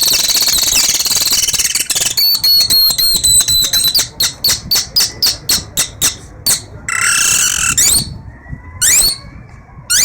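A boy whistling bird calls with his mouth: a rapid high trill, then a run of quick sharp chirps at about three a second, a short hiss a little past the middle, and rising whistled glides near the end.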